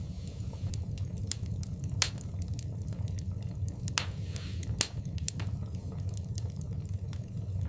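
Wood fire burning in a fireplace: a low steady rumble of the flames under irregular crackles and sharp pops, the loudest pops about two seconds in and around four to five seconds, with a brief hiss near four seconds.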